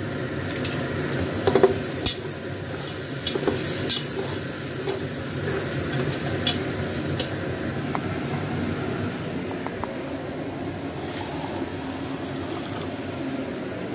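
Beef and spice masala sizzling in a metal pressure cooker pot while a metal spoon stirs it, scraping and clicking against the pot in the first half, then a steady sizzle.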